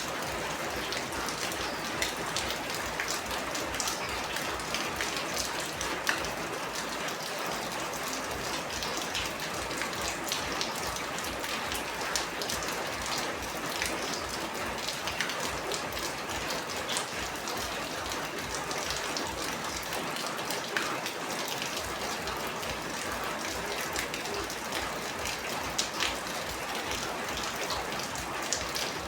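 Steady rain falling, with many individual drops striking a surface close by as sharp ticks scattered through the even hiss.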